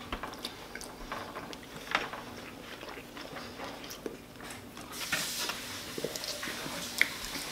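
Quiet close-up chewing of mouthfuls of sushi by two people, with small wet mouth clicks and smacks.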